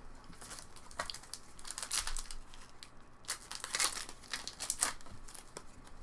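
Plastic wrapper of a trading-card pack crinkling and tearing open in a series of irregular rasps, loudest around the middle.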